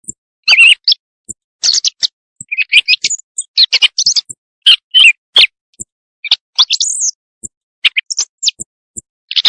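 Thrush calls played as a night-time hunting lure: a quick, irregular run of short, sharp, high-pitched calls with thin high notes among them.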